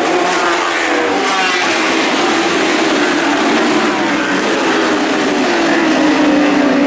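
Superbike racing motorcycle engines running at high revs, their pitch gliding up and down as the bikes accelerate and shift.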